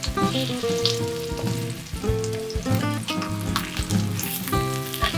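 Food frying in a pan, a steady sizzle with scattered crackling pops, under background music.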